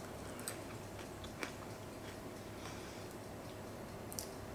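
Faint chewing of a bite of flaky-pastry Portuguese custard tart (pastel de nata), with a few soft, irregular crackles, the clearest about a second and a half in.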